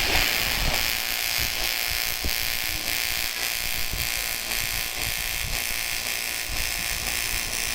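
AC TIG welding arc on aluminium, a steady hissing buzz that holds without a break.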